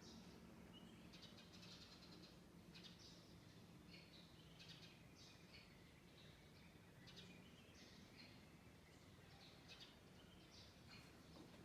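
Small birds chirping faintly, with short high chirps repeated every half-second to a second or so.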